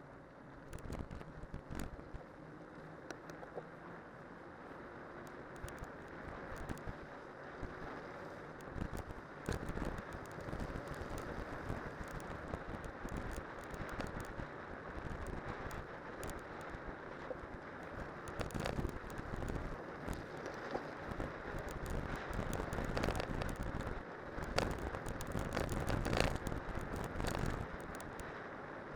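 Spiked cyclocross tyres rolling downhill over winter snow and ice, a continuous rough rolling noise with frequent clicks and knocks as the bike rattles over bumps, and wind on the microphone. It grows gradually louder toward the end.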